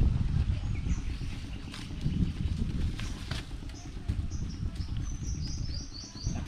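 A small bird chirping in quick repeated runs over the last couple of seconds, over a steady low rumble and a few brief rustles.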